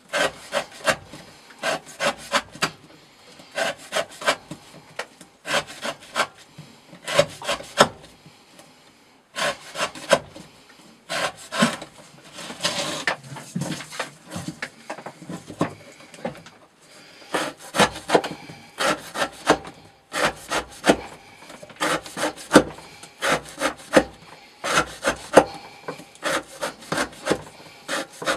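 Elmax-steel Hyperion knife blade cutting through rope again and again. Each cut is a short rasping stroke, a few a second, with a few brief pauses.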